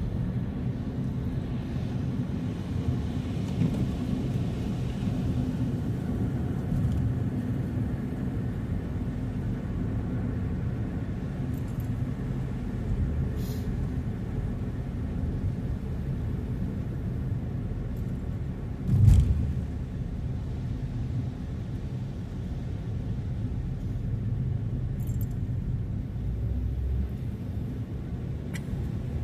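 Car driving: a steady low rumble of engine and road noise, with one short thump about two-thirds of the way through and a few faint ticks.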